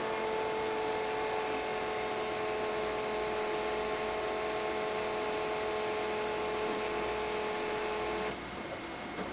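A steady, high electric-motor whine that holds one pitch and cuts off suddenly about eight seconds in.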